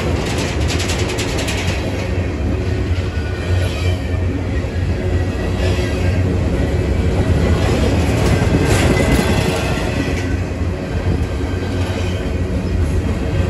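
Empty intermodal well cars of a Norfolk Southern freight train rolling past close by: a steady, loud rumble of wheels on rail, with runs of rapid clicking as the wheels cross rail joints.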